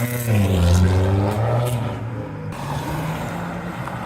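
A modified car's engine accelerating as it pulls away, loudest in the first second or so, then fading to a steadier, quieter note.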